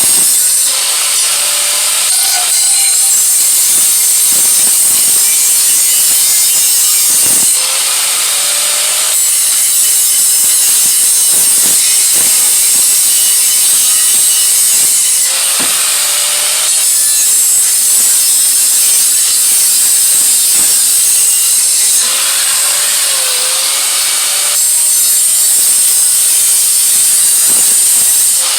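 Continuous abrasive grinding on the steel exhaust head pipe. The sound changes every few seconds as the tool is worked against the pipe, with a faint rising tone at the start of some passes.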